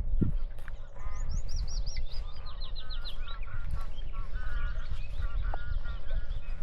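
Several birds calling and singing. From about one and a half to three seconds in, a rapid series of high repeated notes runs on, followed by shorter, lower patterned calls. A steady low rumble lies under it all.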